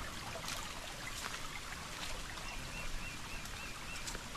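Forest stream running with a steady trickling rush of water. About halfway in, a small creature gives a row of about six short, evenly spaced chirps.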